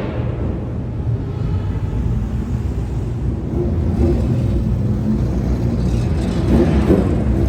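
Car engines running with a low rumble, one swelling in a brief rev about six to seven seconds in.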